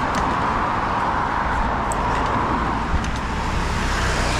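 Steady vehicle road noise: a constant low rumble under an even hiss, with a few faint ticks.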